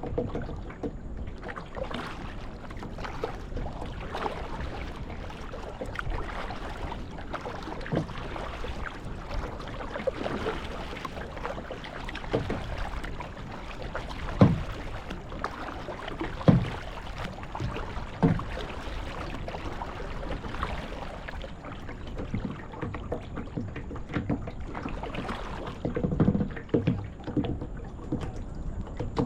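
Kayak paddling: paddle strokes splashing and dripping in the water over a steady wash, with a few sharper knocks standing out in the middle.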